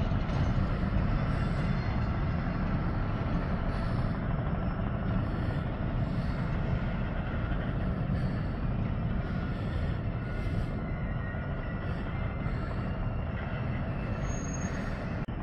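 Class 66 diesel freight locomotive, with its two-stroke V12 engine, hauling a train of wagons: a steady low rumble of engine and rolling wheels.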